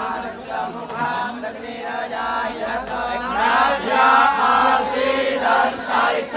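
A group of Vedic students chanting mantras together in unison, growing louder about three and a half seconds in.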